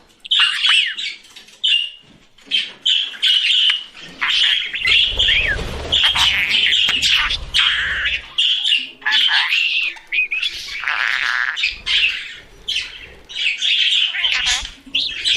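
Budgerigars chirping and warbling: a busy, unbroken stream of short chirps, squawky notes and quick up-and-down whistled glides.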